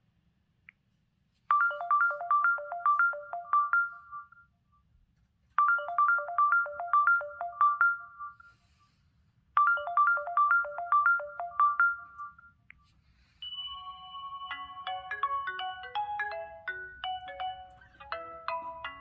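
LG X300 phone ringtones. A short melody of quick notes plays three times with brief gaps between, then a different ringtone with a busier melody starts about two-thirds of the way in.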